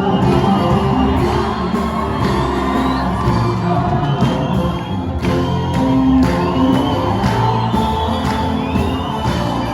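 Ethiopian gospel song (mezmur): singing over instrumental music with a steady beat.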